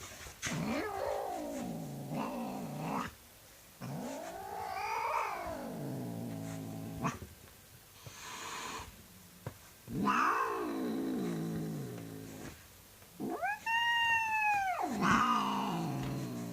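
A domestic cat growling and yowling: a series of about five long drawn-out calls, each rising and then falling in pitch, separated by short pauses.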